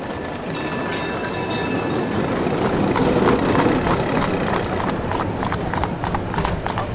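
Street soundtrack of a streetcar running along rails, a continuous rumble with clattering clicks that grow thicker in the second half, mixed with horse hooves clip-clopping on the pavement.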